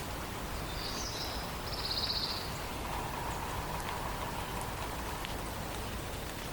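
A songbird gives a short high call and then a fast, buzzy trill about a second in, over a steady, even background hiss of forest ambience.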